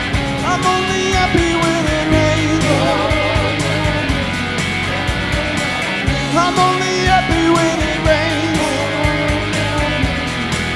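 Live rock band playing amplified electric guitars and drums, with a melody line that slides and bends in pitch over the steady beat.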